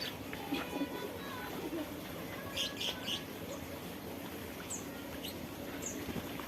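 Small aviary birds chirping: a quick run of three short chirps about two and a half seconds in, then a few single high, short calls spaced apart, over a steady background hiss.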